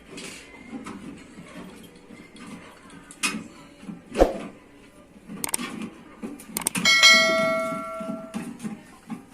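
Metal being struck in a blacksmith's work on a sheet-metal bread pan: a few sharp knocks, then about seven seconds in one hard blow that leaves the metal ringing like a bell for about a second and a half.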